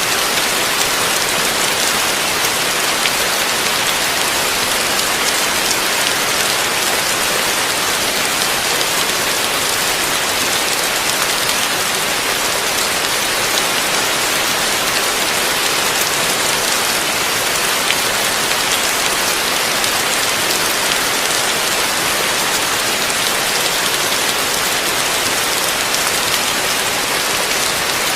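Heavy rain falling steadily, a dense, even hiss of drops on a surface with no let-up.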